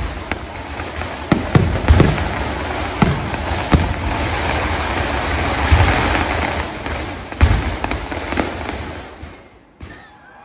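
Fireworks going off in quick succession: sharp bangs at irregular intervals over a dense crackling, which fades and dies away near the end.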